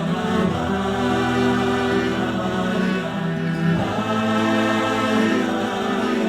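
Music: a choir singing held, wordless chords over a sustained accompaniment, the harmony shifting a little past halfway.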